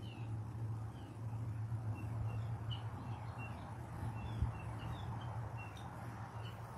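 Small birds chirping in the background, short high chirps about twice a second, over a steady low hum.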